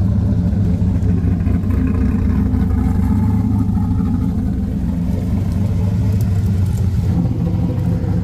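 1969 Chevrolet Camaro's engine idling steadily, a deep even rumble.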